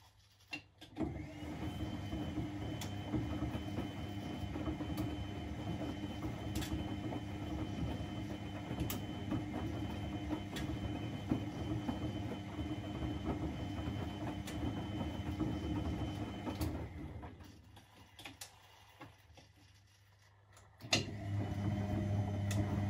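Washing machine with a three-speed gear motor turning the drum in a wash cycle: a steady running rumble with a faint high whine and a light click about every two seconds, which stops for a few seconds before a steady low hum starts near the end.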